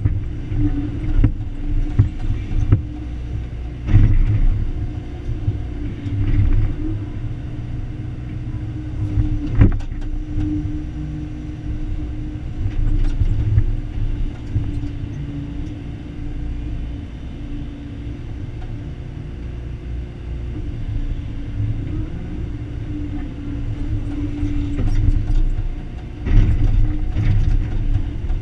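Excavator's diesel engine running steadily under load as it digs, with several sharp knocks and clanks from the digging. One knock comes near the start, a few come in the first ten seconds, and a cluster comes near the end.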